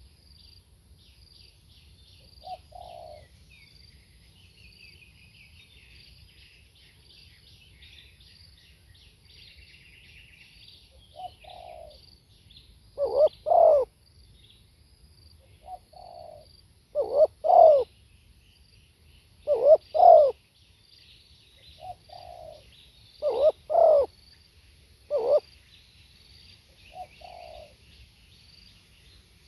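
Spotted dove cooing: each phrase is a soft lead-in note followed by loud paired coos, repeated about every three to four seconds over the second half, after one faint note early. Small birds chirp high and continually in the background, with insects buzzing in the first third.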